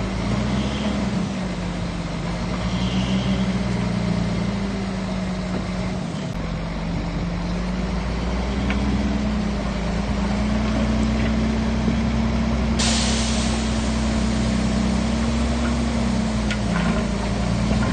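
Heavy diesel engine of earthmoving machinery running steadily, its pitch rising and falling slightly with load. About two-thirds of the way in, a steady hiss sets in and continues over it.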